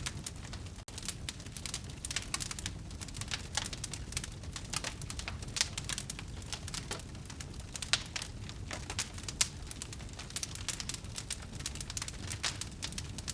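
Wood fire crackling in a fireplace: a dense run of small snaps and pops, a few louder ones, over a low rumble of burning. A very brief dropout comes about a second in.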